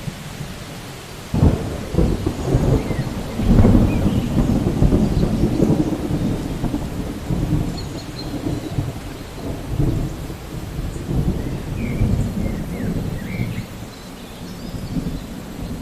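Thunder: a sudden clap about a second and a half in, then a long low rumble that rolls on and slowly fades, over steady rain.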